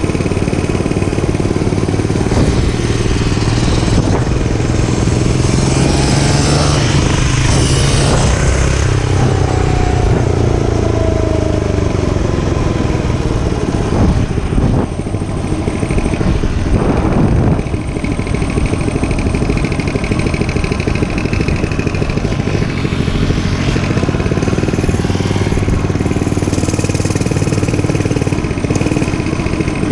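Dirt bike engine running steadily while riding, its pitch sliding up and down with the throttle around the middle.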